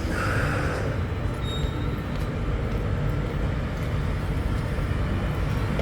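Light-rail train running at a station with a low, steady rumble, and a short hiss just after the start.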